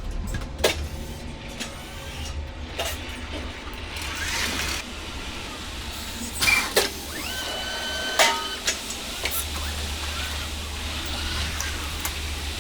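Steady low mechanical hum with several sharp knocks and clanks, and a few brief high squeaks in the middle, from heavy appliance handling work.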